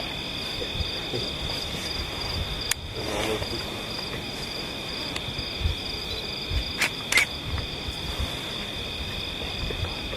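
Steady chorus of insects trilling at a few high pitches, broken by a few sharp clicks, two of them close together about seven seconds in.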